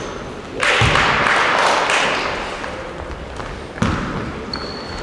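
Basketball bouncing with heavy thuds on a hall floor, with a loud rush of noise about a second in and short high squeaks near the end.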